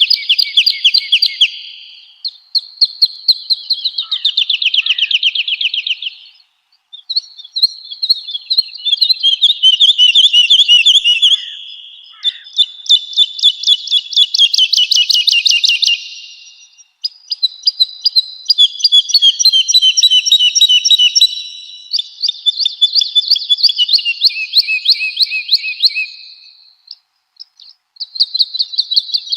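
Woodlark singing: a run of fast, high trilled phrases, each about two to four seconds long, with brief pauses between them.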